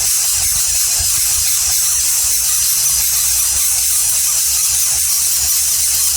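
Steady high-pitched hiss at an unchanging loud level, with low rumbling and small bumps underneath.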